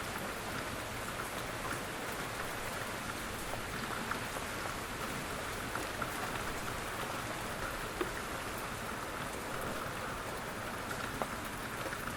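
Steady rain falling, an even hiss with scattered single drops ticking on a surface.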